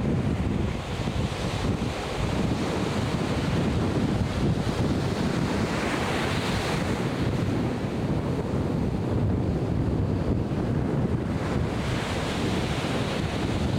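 Atlantic Ocean surf washing steadily, with wind buffeting the microphone. The wash swells brighter for a moment about six seconds in.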